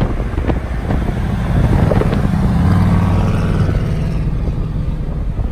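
A car engine running low and steady, swelling in loudness about a second and a half in and fading again after about four seconds.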